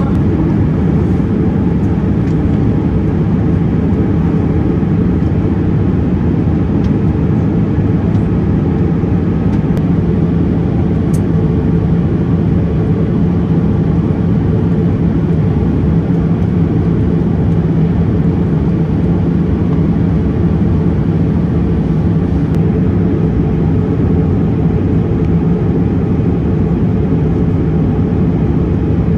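Steady, even cabin drone inside a Boeing 787-8 airliner, with most of the sound low down.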